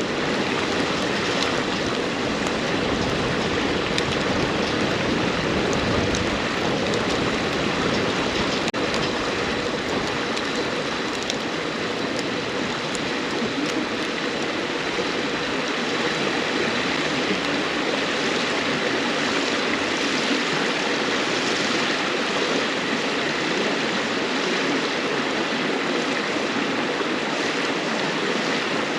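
River water rushing and babbling in a steady stream, with a few faint crackles from burning firewood in a campfire.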